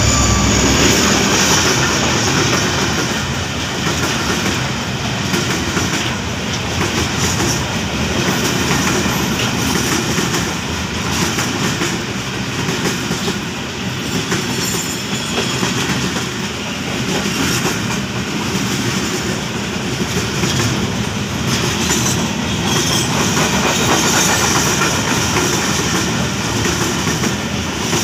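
Freight train of covered box wagons passing close by, its wheels clicking over the rail joints in a steady clickety-clack; the diesel locomotive at its head goes by at the very start.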